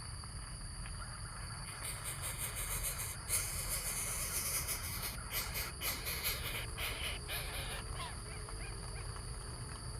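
Steady high-pitched insect drone over a low rumble. From about two to eight seconds in, a louder stretch of crackling and rustling sounds over it.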